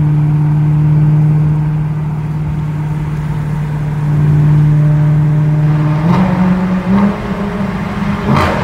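BMW E92 M3's 4.0-litre V8, heard from inside the cabin, holding a steady note while cruising in seventh gear. Over the last few seconds the dual-clutch gearbox downshifts towards fifth, with three short sharp throttle blips about six, seven and eight and a half seconds in.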